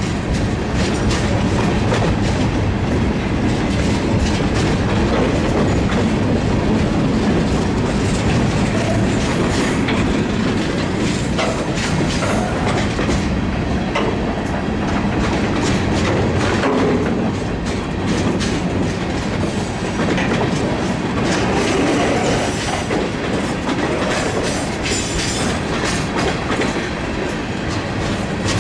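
Freight cars rolling past close by: steel wheels running on the rails in a steady loud rumble, with repeated clicks and clacks as the wheels cross rail joints, car after car.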